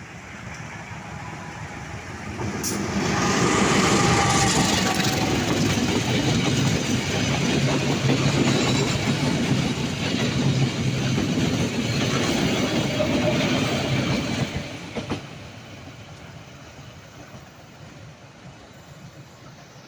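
A train passing close by on the track with wheels clattering. The sound swells up about two seconds in, stays loud for about twelve seconds, then falls away quickly.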